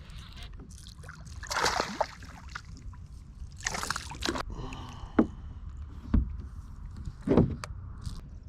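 Water splashing and sloshing beside a kayak in two rushes as a hooked largemouth bass is fought to the boat, followed by a few sharp knocks against the hull.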